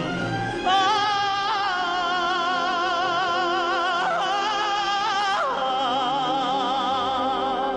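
A song with a singer holding one long note with wide vibrato over instrumental accompaniment, then gliding down into another held note about five and a half seconds in.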